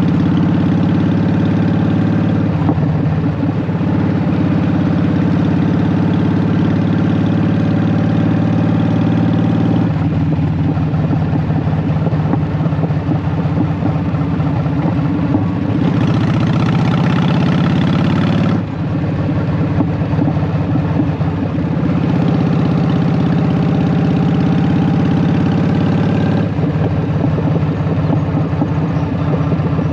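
Honda Shadow VT750 V-twin through Vance & Hines Short Shots exhaust, running steadily under way with its note changing every several seconds as the throttle shifts. From about 16 to 18.5 seconds a louder rushing hiss rides over the engine, then drops off suddenly.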